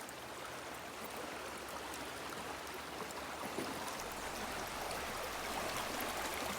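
A woodland river flowing: a steady rush of running water that grows slightly louder toward the end.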